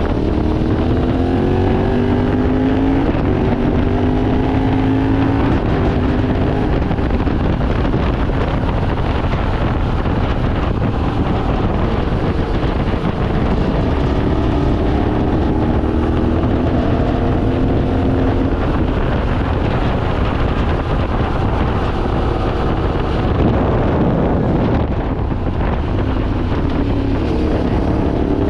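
Yamaha Ténéré 700's 689 cc parallel-twin engine pulling hard under acceleration, its revs climbing in three separate pulls through the gears. Heavy wind rumble on the microphone runs underneath.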